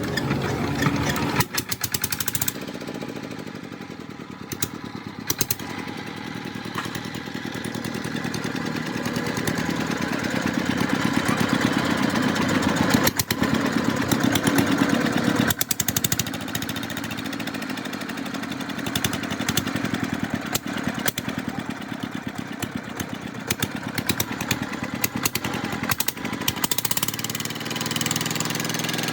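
Rebuilt Petter diesel engine running with a rapid, even knock of firing strokes. Its speed picks up near the end.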